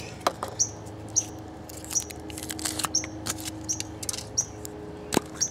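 A bird chirping over and over in the background: a short high chirp about every second. Underneath are light clicks and taps of a plastic Kinder Surprise toy capsule being handled, with one sharp click near the end, and a faint steady hum.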